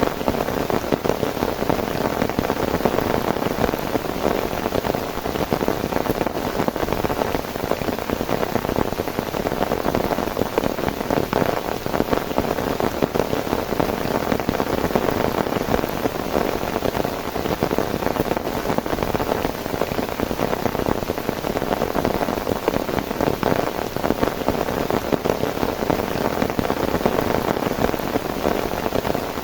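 Heavy rain falling steadily: a dense, even stream of drops striking a surface, with no lulls.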